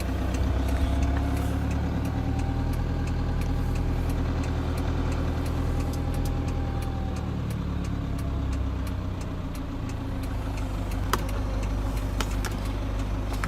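2015 Toyota Land Cruiser Prado's engine idling steadily, heard from inside the cabin, with a few light clicks near the end.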